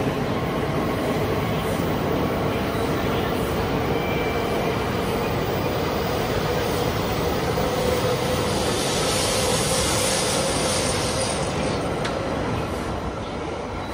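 E5 series Shinkansen cars rolling past close by as the coupled E5/E6 train pulls out of the station: a steady rumble of wheels and running gear with a humming tone that rises slightly in pitch as it gathers speed. A hiss swells about eight seconds in and the noise eases near the end.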